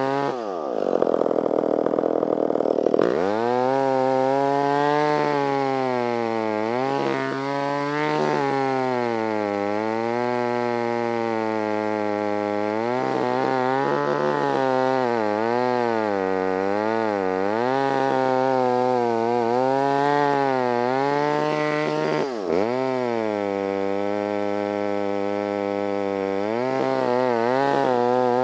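Stihl 056 two-stroke chainsaw with a 36-inch bar cutting through a large dead elm. The engine pitch wavers up and down as the chain loads in the tough wood and recovers, with a sharp dip and pick-up about 22 seconds in.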